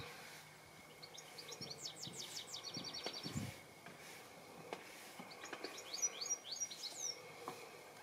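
A songbird singing in the garden: two quick trilled phrases of fast, high notes, one about a second in and another about five and a half seconds in.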